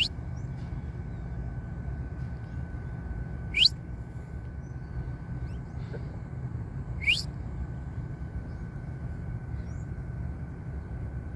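Saffron finch giving short, sharp upward-sweeping calls, three times at intervals of about three and a half seconds, with faint chirps between, over a steady low rumble.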